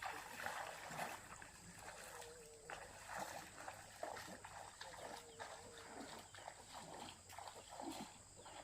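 Dog whining, several drawn-out wavering whines over light rustling and small knocks.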